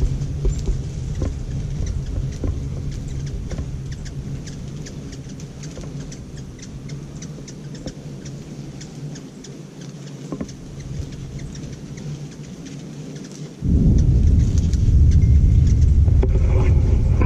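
Thunder rumbling. A long roll fades over the first several seconds, then a sudden louder rumble starts about 13 seconds in, with faint high ticks throughout.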